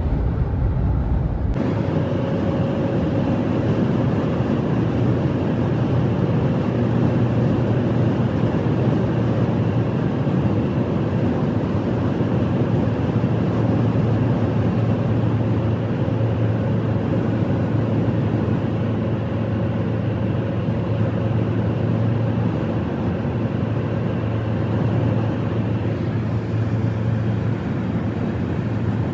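Steady engine and road noise of a vehicle driving, with a constant low hum; the sound changes abruptly about a second and a half in.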